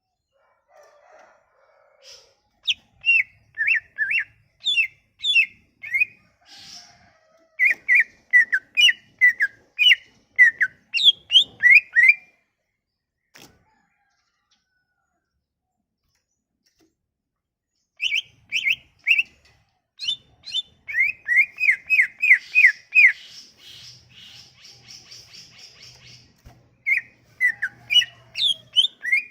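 Songbird singing in phrases of quick, sharply falling whistled notes. It pauses for several seconds midway, then resumes with a faster run of notes and a short buzzy, rasping stretch. It is played as a lure to get a silent cucak ijo (greater green leafbird) singing.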